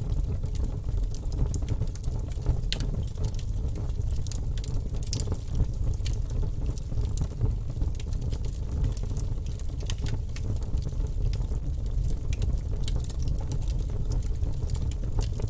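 Wood fire burning in a fireplace: a steady low rumble from the flames with frequent, irregular sharp crackles and pops.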